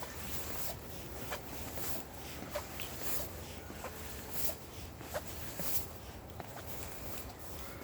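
Footsteps walking at a steady pace, a short step sound roughly every half second or so.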